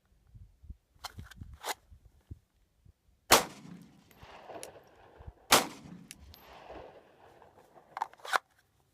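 Two 9 mm pistol shots from a Glock 19 Gen4, about two seconds apart, each followed by an echo. They are fired as one shot on each of two target dots after a draw. Lighter sharp clicks and knocks come before the first shot and again near the end.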